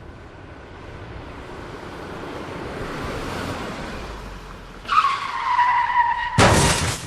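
A car approaches with swelling engine and road noise, then its tyres screech under hard braking for about a second and a half, ending in a loud crash impact. It is the sound of a road accident.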